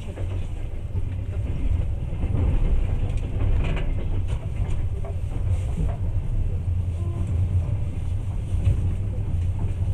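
Passenger train running, heard from inside the carriage: a steady low rumble of the wheels on the rails.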